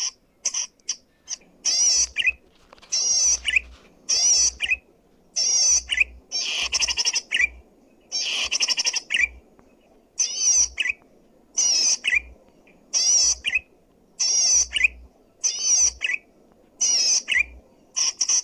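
Zitting cisticola (cici padi) singing loudly: short phrases of fast, high warbling trills, roughly one a second with brief gaps between them, each ending in a lower slurred note.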